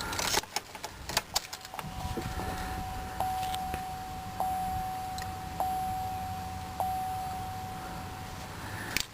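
Keys jangling and clicking into the ignition of a 2003 GMC Sierra 2500 HD. The key is then turned to on, and a warning chime dings about every second over a steady low hum, just before the engine is cranked.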